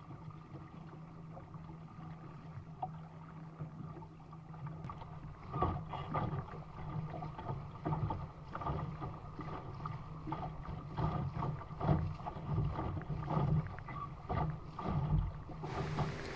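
Water slapping and splashing against a small sailing dinghy's hull as it runs downwind, with irregular knocks that become more frequent from about five seconds in, over a steady low hum.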